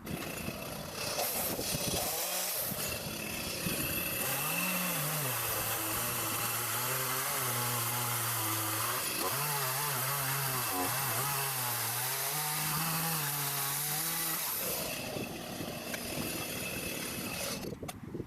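Chainsaw with a 14-inch bar cutting into a thick tree stump. The engine runs under load for about twelve seconds, its pitch falling and holding lower in the cut, then eases off near the end.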